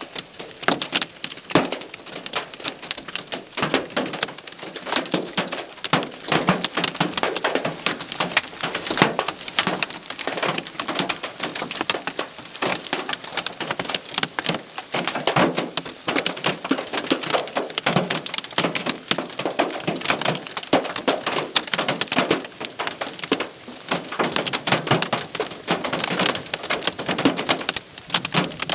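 Hailstones pelting a hard surface in a dense, irregular clatter of many sharp hits, with heavier knocks standing out throughout.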